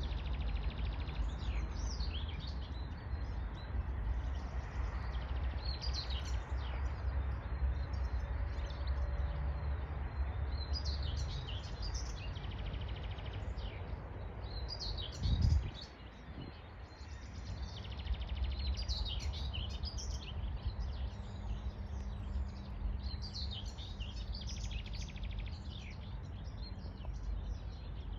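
Several songbirds chirping and singing in short, repeated phrases over a steady low rumble of wind on the microphone. About halfway through, a short low thump is the loudest moment.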